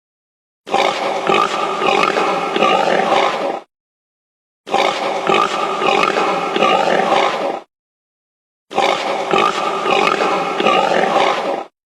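An animal's calls, the same three-second recording played three times with a second of silence between each.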